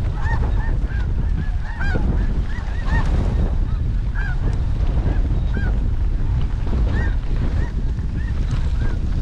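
Snow geese calling: many short, high honks overlapping throughout, over heavy wind rumble on the microphone.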